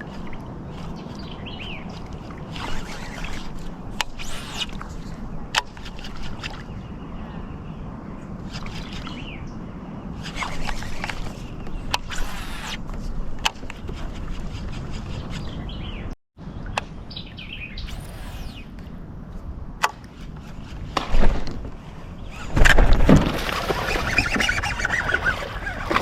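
Lake fishing from a kayak, with birds calling, short swishes and clicks of tackle over a steady low background. Near the end a loud splash and thrashing water as a bass strikes the topwater frog lure.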